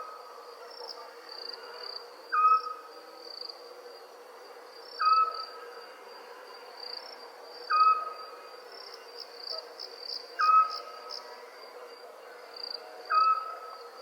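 An owl's short call, a quick upward note that levels off, repeated five times about every two and a half seconds, over a steady high trilling of crickets.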